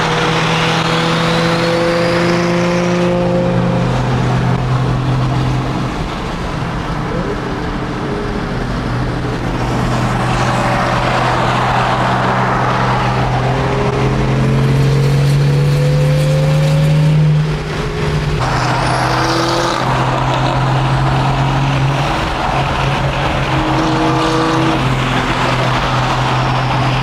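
A car engine running loudly and steadily. Its pitch climbs slowly and then drops back sharply about 17 seconds in, like a car pulling away and changing gear.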